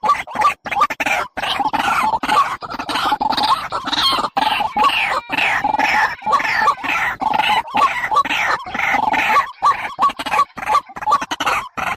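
Bird calls: many short notes sliding down in pitch, repeated rapidly and without pause.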